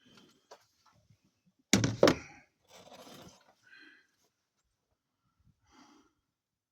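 Two heavy thunks close together, then a short scraping or rustling, from hands-on work pulling apart the truck's radiator fittings.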